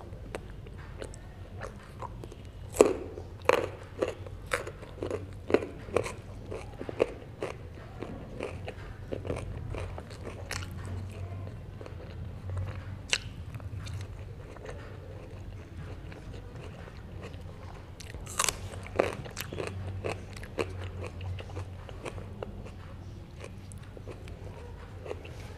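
Close-miked chewing and biting of herring: a run of crisp clicks and crunches in the first several seconds, quieter chewing in the middle, and two loud bites near the end, over a steady low hum.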